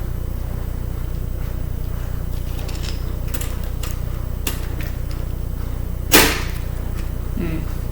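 Light clicks of hand tools on the small metal parts of a laptop CD drive being taken apart, then one short, louder clatter about six seconds in, over a steady low hum.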